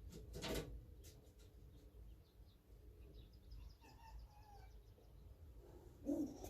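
Faint bird chirps and calls, thickest in the middle of the stretch, with a soft knock about half a second in and another near the end.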